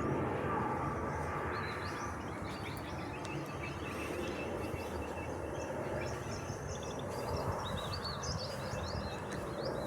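Distant aircraft engine noise dying away to a low steady hum, with small birds chirping throughout.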